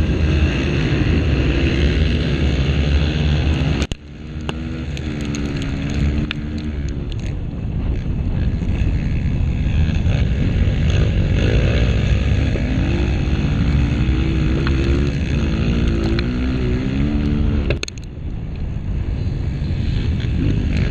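Honda CRF230 dirt bike's single-cylinder four-stroke engine under hard riding, revving up and down with the throttle and gear changes, with wind buffeting the microphone. The engine note drops sharply twice, about four seconds in and near the end, where the throttle is snapped shut.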